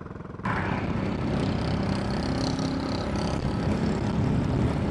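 Motorcycle under way: engine running with heavy wind rush over the microphone, cutting in suddenly about half a second in after a faint low hum.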